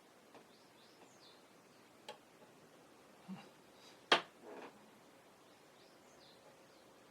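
A few small clicks and taps from tools and plastic model parts being handled, the loudest a sharp tap about four seconds in, followed by a brief rustle. Faint bird chirps sound in the background.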